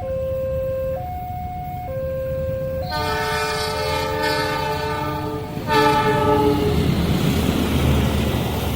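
Railway level-crossing alarm alternating between two tones about once a second. About three seconds in, a locomotive horn sounds a long blast of several notes together, then a second shorter blast, and the rumble of the approaching train rises and takes over.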